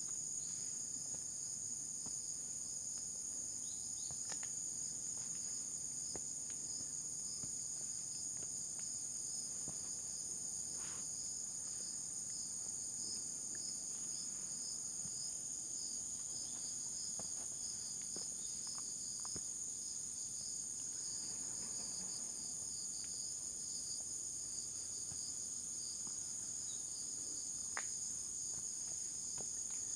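Steady, high-pitched chorus of insects in the forest, a continuous shrill trill in several bands, with a few faint clicks scattered through.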